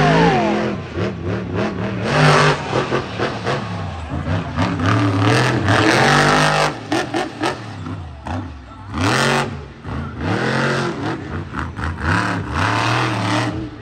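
Monster truck engines revving hard in repeated bursts, the pitch rising and falling, with loud surges about two seconds in and again near nine seconds.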